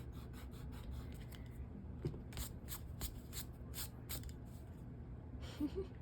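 A pencil scratching on paper in short repeated strokes, quickest and loudest in the middle at about three strokes a second, as a line of the drawing is drawn out.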